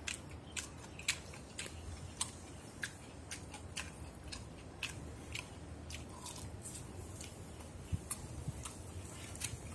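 A person chewing a mouthful of rice wrapped in roasted seaweed, with soft, faint wet mouth clicks about twice a second.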